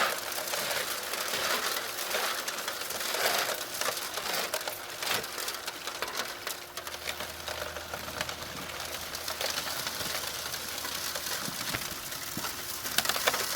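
High banker running: water washing through the sluice with gravel clicking and rattling as a bucket of dirt is fed in, over a steady hum from the pump. A lower hum joins about halfway through.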